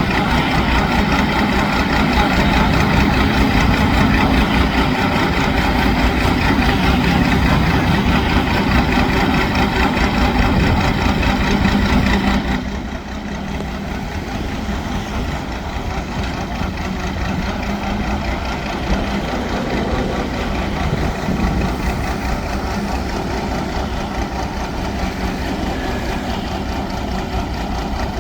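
The engine of a homemade mud suction boat running steadily. About twelve seconds in it drops suddenly quieter and duller, then carries on at the lower level.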